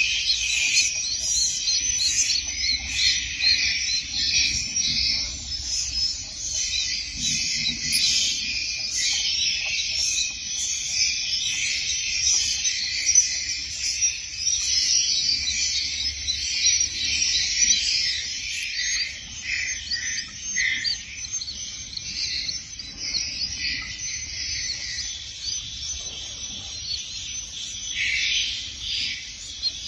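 Swiftlets chirping and twittering in a dense, continuous chorus of high, buzzy calls. A regular high ticking runs over it through about the first half.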